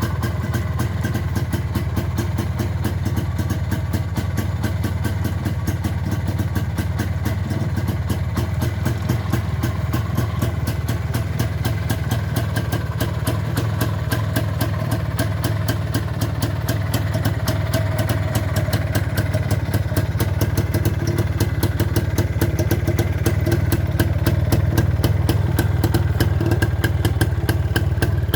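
Izh Planeta 5 motorcycle's single-cylinder two-stroke engine idling cold, with a steady, rapid firing beat. It gets a little louder over the second half.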